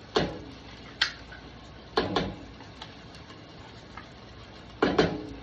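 Sharp metallic knocks as a can of red curry paste is knocked and tapped to empty it into a pot. There are about six knocks at uneven intervals, some in quick pairs, each with a short ring.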